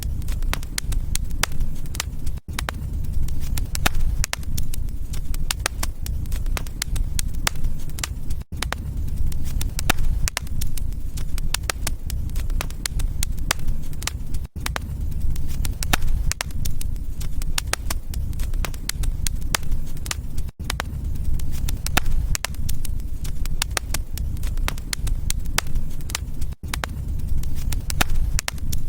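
Wood fire crackling and popping in a fireplace, with dense irregular snaps over a steady low rumble of the flames. The sound briefly drops out about every six seconds.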